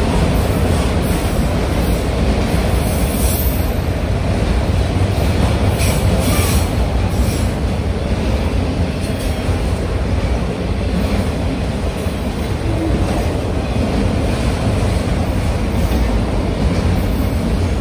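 Autorack freight cars rolling past at steady speed: a continuous low rumble of steel wheels on rail. Brief high-pitched flickers come about three and six seconds in.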